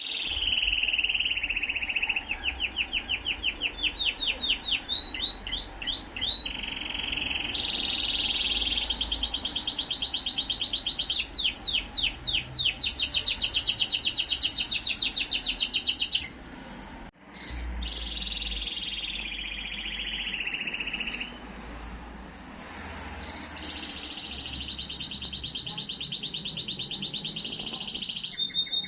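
Male Timbrado canary singing a long song of rapid trills and rolling repeated notes that change speed and pitch from phrase to phrase. The song breaks off briefly a little past halfway, goes quieter for a few seconds, then comes back strong.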